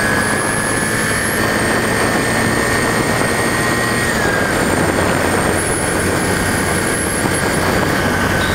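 Yamaha SR250's single-cylinder four-stroke engine running steadily while the motorcycle is ridden, with wind rushing over the microphone. A thin whine in the sound steps down in pitch about four seconds in.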